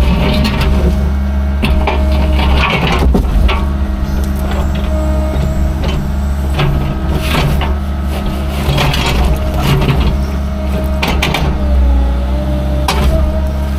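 Diesel engine of heavy demolition equipment running steadily, with scattered knocks and cracks of broken concrete being handled.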